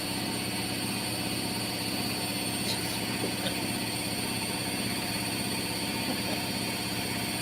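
A steady motor hum with many overtones and a hiss, holding an even level throughout.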